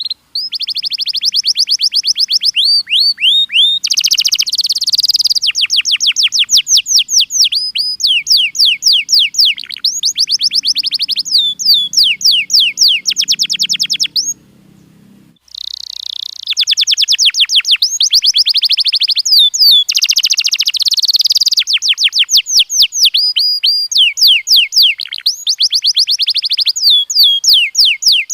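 Domestic canary singing a long, loud song made of fast trills of rapidly repeated sweeping notes, with one brief break about halfway through before it resumes.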